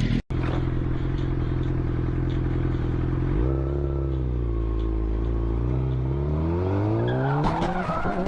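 Motor vehicle engine running steadily, dropping in pitch about three and a half seconds in, then rising steadily as it accelerates. A clattering noise follows near the end.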